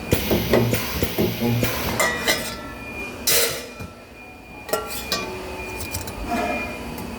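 Sheet-metal parts clinking and knocking as they are handled at a spot-welding station, with a short hiss a little over three seconds in.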